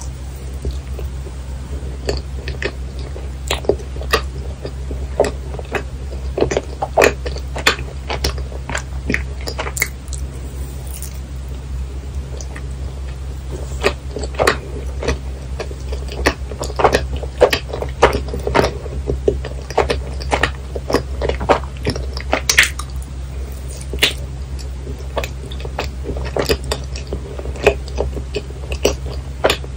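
Close-miked chewing of chewy yakgwa (Korean honey cookie) topped with vanilla ice cream: irregular sticky mouth clicks and smacks, over a steady low hum.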